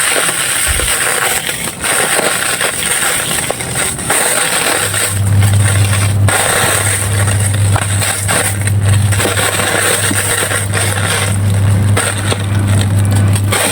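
Dry, handmade red-sand clay pieces being crumbled and crushed by hand, giving a dense, crunchy crackle of many small breaks. A steady low hum sits underneath from about five seconds in.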